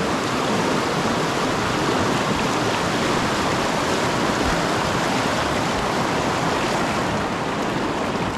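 River whitewater rushing over a rapid: a steady, even wash of moving water.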